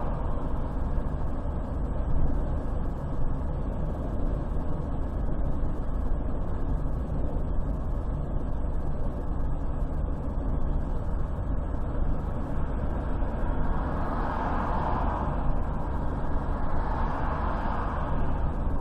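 Car driving along a highway: steady road, tyre and engine noise, swelling twice near the end.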